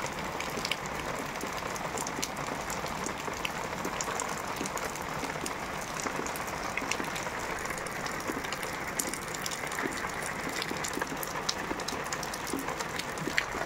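Heavy rain falling steadily, a dense even hiss with many scattered sharp ticks of individual drops.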